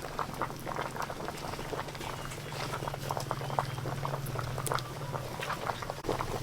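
A pot of sweet corn at a rolling boil, bubbling with many small irregular pops and crackles, over a low steady hum.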